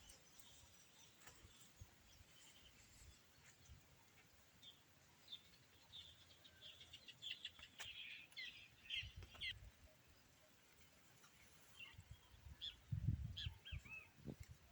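Faint bird chirping: a run of short high chirps in the middle and a few more near the end, with some low dull thumps near the end.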